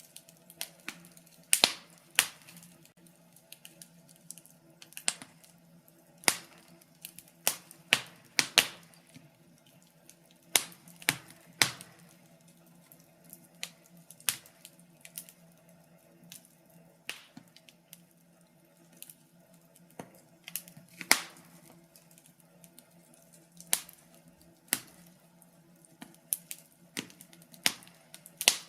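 Wood fire crackling in a fireplace: irregular sharp snaps and pops, a few every second or two, some much louder than others, over a faint steady hum.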